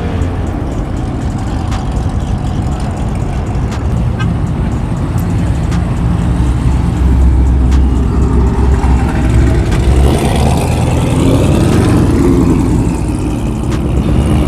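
Car engines running and passing, getting louder from about seven seconds in, with low wind rumble on the microphone.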